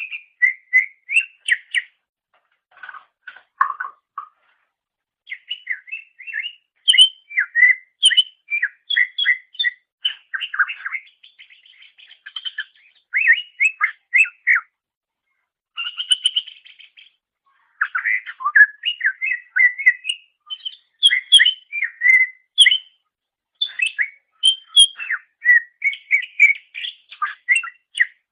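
A cucak ijo (green leafbird) singing a long, varied song of quick whistled notes and chattering trills, delivered in phrases broken by short pauses.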